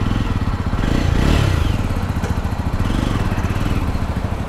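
Jawa 42 2.1 motorcycle's single-cylinder engine running under way, with rapid low firing pulses. The revs rise about a second in and then settle.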